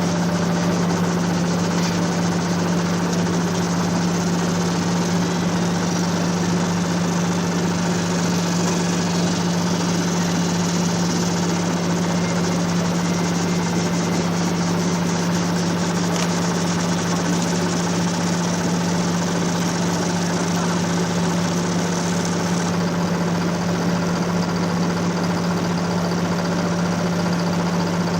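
Steady drone of a river motor ship's diesel engine, an unbroken low hum with a haze of mechanical noise above it, heard aboard.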